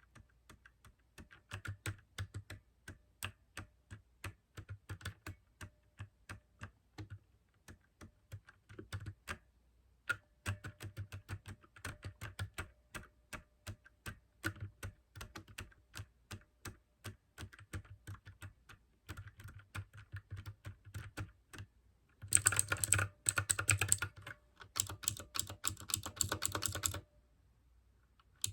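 Typing on a mechanical keyboard with clicky blue switches, a fast run of keystrokes with a short pause about a third of the way in. Near the end comes a burst of louder, denser keystrokes, then the typing stops.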